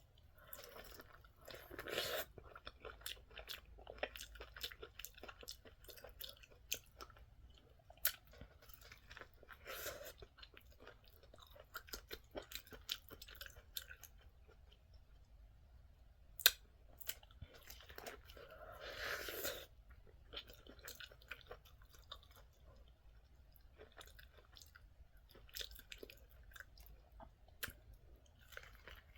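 Close-up chewing and crunching of fried food, an irregular run of small mouth clicks, with one sharper click about sixteen seconds in.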